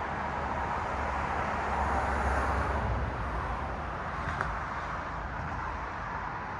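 Cars passing on a city street: tyre and engine noise swells as a vehicle goes by about two seconds in, then eases back into steady traffic hum. A short tick sounds a little past the middle.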